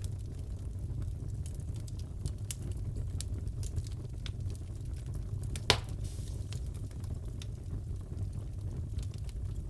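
Crackling fireplace: a steady low rumble of the burning fire with scattered small crackles, and one loud pop a little over halfway through.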